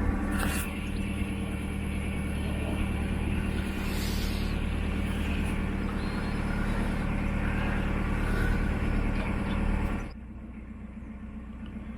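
A narrowboat's diesel engine running steadily with a low, even drone and a rushing noise over it. About ten seconds in, the rushing drops away suddenly and the engine goes on more quietly.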